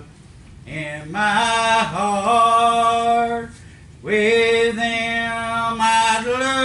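A man singing a slow gospel hymn, drawing out long held notes in two phrases with a short breath between them about halfway through.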